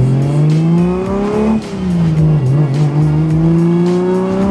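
Single-turbo BMW N54 inline-six with an open downpipe exhaust, under hard acceleration. The revs climb for about a second and a half, drop sharply at an upshift, then climb again through the next gear.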